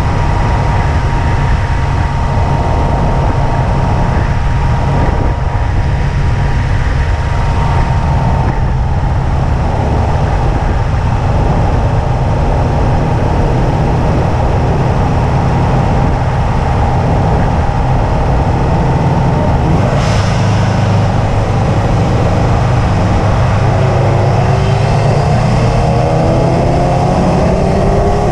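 2005 Subaru WRX wagon's turbocharged flat-four running at a steady track pace under a heavy low rumble of engine and road noise, with a thin high whine slowly sinking in pitch. About four seconds before the end the engine pulls harder and its note rises steadily.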